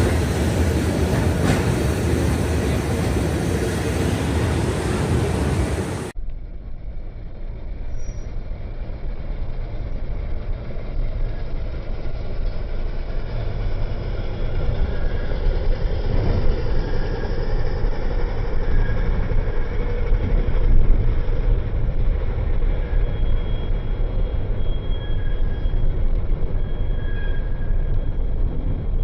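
Tram running on its rails: a steady rumble of wheels and running gear, with faint, intermittent high squeal tones from the wheels later on. The sound changes abruptly about six seconds in, as if the recording cuts to a new shot.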